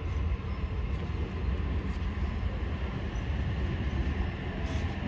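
Sydney Trains double-deck electric train pulling into the platform: a steady low rumble of wheels and running gear.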